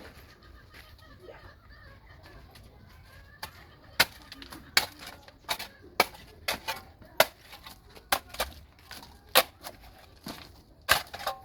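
An irregular series of about a dozen sharp knocks or clicks, starting a few seconds in, over a quiet background.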